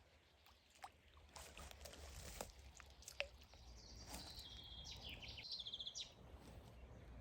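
Faint birds calling outdoors: a few short, sharp calls, then a high trilling song phrase from about four to six seconds in.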